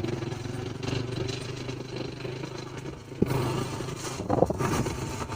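Motorcycle engine running steadily on the move, with a single sharp click about three seconds in.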